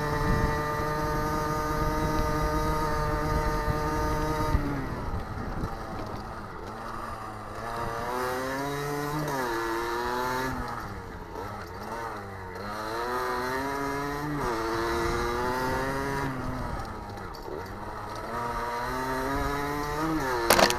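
Motocross bike engine running at a steady pitch for about four and a half seconds, then revving up and falling back again and again as the throttle is opened and closed. A sharp knock near the end.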